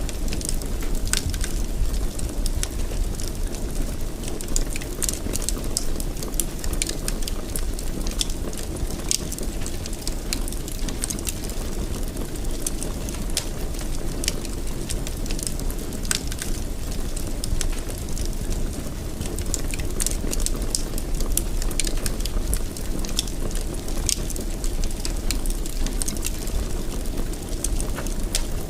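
Wood fire burning in a fireplace: a steady low rush of flames with frequent irregular crackles and sharp pops of burning wood.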